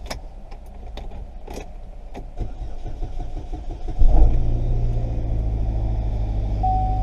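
Chevrolet Captiva engine started on a newly programmed key: a few clicks, then the engine catches about four seconds in and settles into a steady idle, showing the new key has been accepted. A brief beep sounds near the end.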